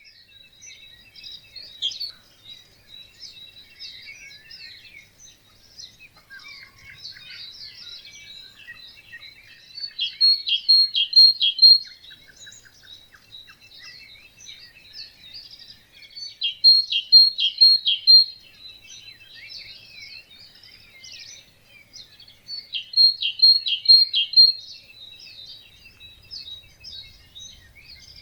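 Dawn chorus of many songbirds singing and chirping together. One bird stands out above the rest, repeating a loud short phrase of four or five quick notes about every six or seven seconds.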